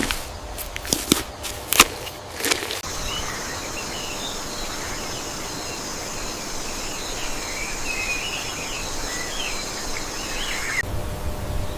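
Rainforest ambience. A few sharp clicks or snaps come in the first three seconds, then insects drone steadily in a high band with scattered bird chirps over it.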